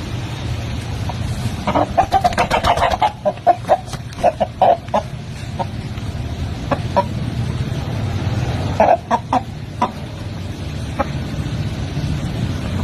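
Chicken clucking in quick runs of short clucks, in two main bouts with a few single clucks between, over a steady low rumble.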